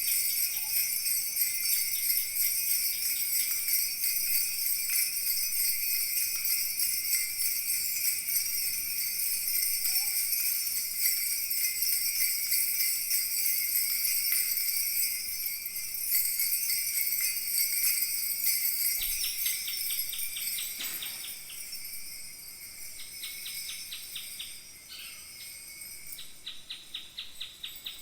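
Kaskawillas, Mapuche bronze bells, shaken in a dense, continuous jingling that imitates falling water. The jingling fades about two-thirds of the way in, as a fast, even pulsing chirr like crickets comes up.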